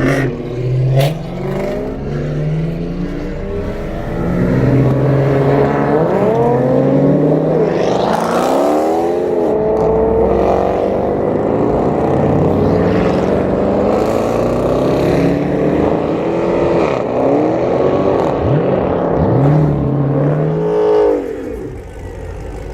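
Car engines revving hard, several at once, their pitch rising and falling again and again. The sound grows louder about four seconds in and drops off sharply near the end.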